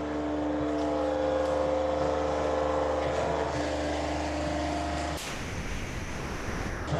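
Forging machinery running: a steady low hum with several held tones. About five seconds in the tones drop out and give way to a rougher, hissier noise.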